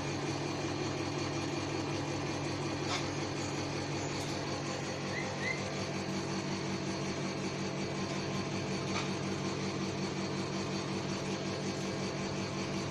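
Steady mechanical hum of a running motor, even throughout, with a faint click about three seconds in and another about nine seconds in.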